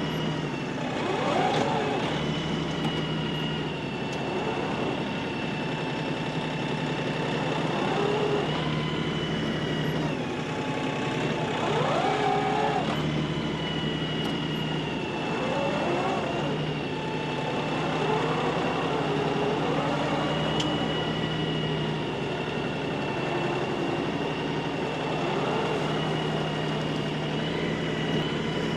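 LS XR315 compact tractor's diesel engine running steadily while the tractor works, with a steady high whine over it and a pitch that rises and falls every few seconds.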